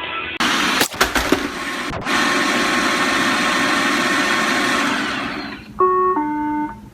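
Roomba robot vacuum running, its motor and brushes loud, with a few knocks about a second in. The motor winds down near the end and a two-note falling electronic tone follows, the Roomba's error tone that comes before its spoken 'Error 1, left wheel' message.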